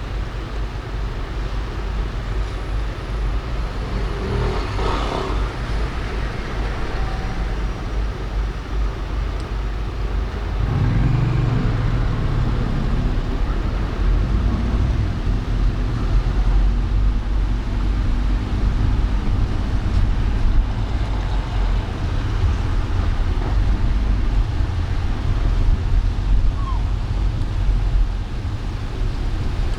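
Road traffic heard from a moving car: a steady low rumble of engines and tyres, with a brief louder passing sound about five seconds in and a deeper, louder engine sound from about eleven seconds in.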